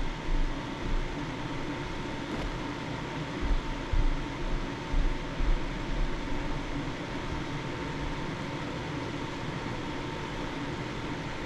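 A steady fan-like hum with a faint high tone running through it, and a few low bumps and knocks in the first half.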